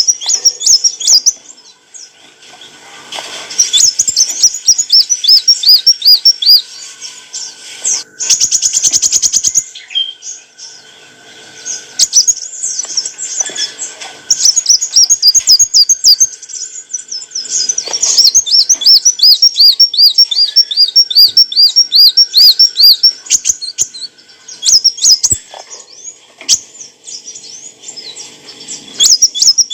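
Sunbird (kolibri wulung) singing: loud, fast runs of high, thin looping chirps, each run lasting a few seconds with short pauses between them.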